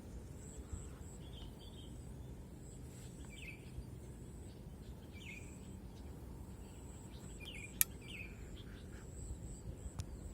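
Short, high bird calls, about five of them a second or two apart, over a steady low background noise, from sooty-headed bulbuls; a single sharp click near the end.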